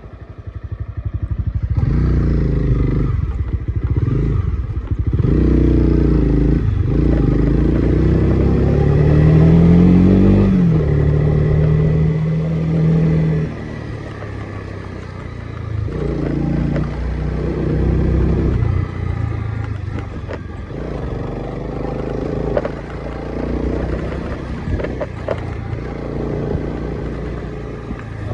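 Honda CB300R single-cylinder motorcycle engine running under way, loud through the first half. About nine seconds in its pitch rises under throttle, dips and holds, then the engine sound eases off to a lower, steadier level after about thirteen seconds.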